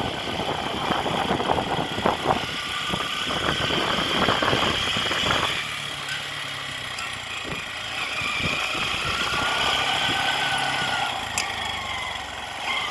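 A motor vehicle's engine running steadily at low speed, with a faint high whine over the second half.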